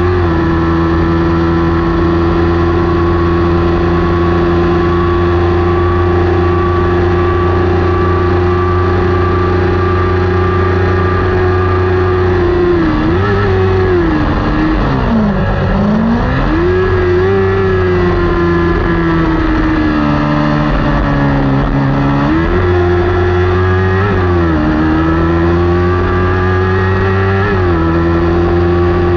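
Kawasaki Ninja 400 parallel-twin race engine running near the top of its revs at a steady pitch. About halfway through, the pitch drops and climbs again as the rider shifts gears and slows for a turn. Near the end, the pitch rises and falls through further gear changes.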